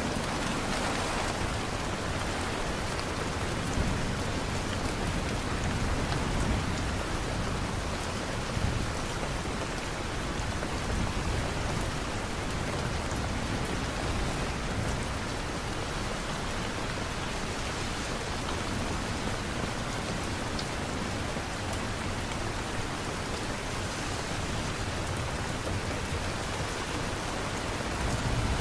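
Steady rain falling, an even hiss of many drops, with a few brief louder taps in the first nine seconds.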